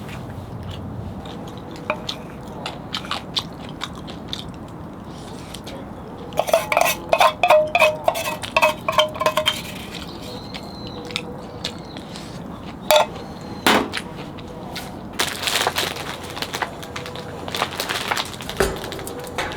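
Camp dishes and utensils clinking and knocking, with a run of rapid ringing clinks about six to nine seconds in and a few scattered knocks later. Steady rain noise lies underneath.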